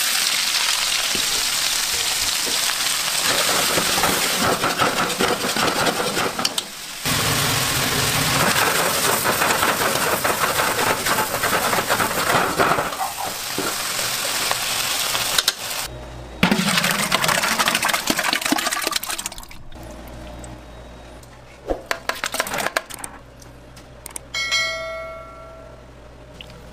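Sliced onions sizzling loudly in a hot wok as they are stir-fried, for about the first fifteen seconds. After that the frying is quieter, with scattered clicks, and a short ringing chime sounds near the end.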